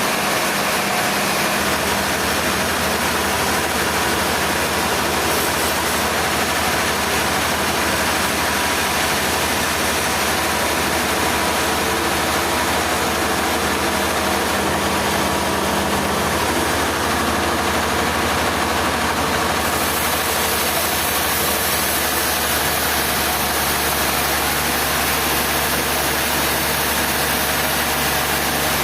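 Sawmill machinery running steadily: an unbroken engine-like drone with no pauses or impacts.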